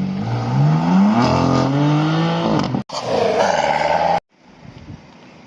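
Car engine accelerating hard, its note rising steadily through a gear, with a brief break about three seconds in, like a gear change, then pulling loudly again until the sound cuts off suddenly. After the cut there is only quieter background noise.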